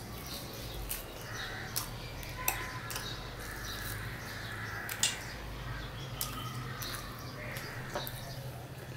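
Close-up chewing of fried egg-coated bread, with scattered soft clicks and crunches, over a steady low hum.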